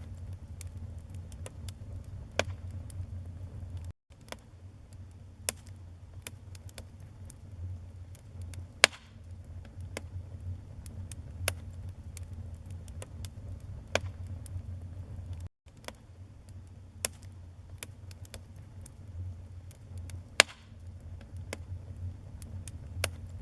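Wood fire burning in a fireplace: irregular sharp crackles and pops from the burning logs over a low steady rumble, with two much louder pops, one about nine seconds in and one near the end. The sound cuts out briefly twice.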